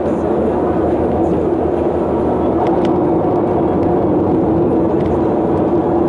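Steady road-vehicle running noise while travelling on a city road, with a constant engine hum.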